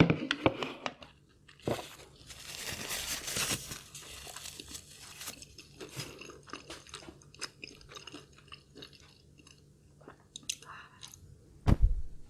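Close-miked eating sounds: a person chewing and crunching food, with many sharp wet mouth clicks and a louder stretch of chewing in the first few seconds. A single loud thump comes near the end.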